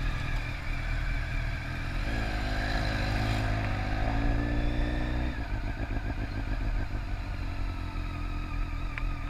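Motorcycle engine running steadily. From about two seconds in, a second engine note rises slowly, then drops away suddenly a little after five seconds.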